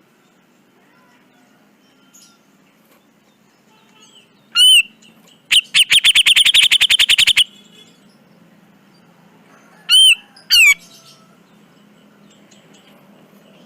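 Grey-cheeked bulbul (cucak jenggot) calling: one sharp call about five seconds in, then a fast chattering run of about fifteen notes lasting nearly two seconds, then two more sharp calls around ten seconds in.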